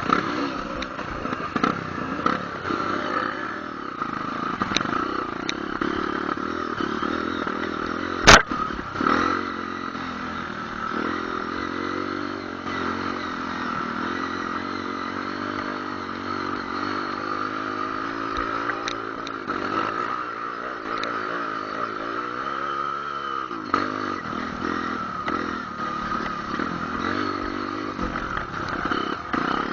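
Trail motorcycle engine running under way, its pitch rising and falling as the throttle is opened and closed, with one sharp knock about eight seconds in.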